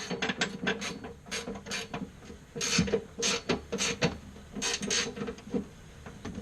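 Hand ratchet clicking in quick runs and short strokes as a bolt is worked during an engine and transmission install.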